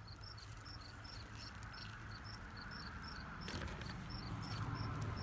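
A steady run of short, high chirps, about three a second, typical of a cricket, over a low outdoor rumble that grows louder toward the end.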